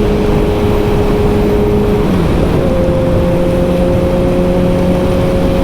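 Motorcycle engine running at a steady cruise, heard from the rider's seat over a heavy low wind rumble on the microphone; its note shifts to a new steady pitch about two seconds in.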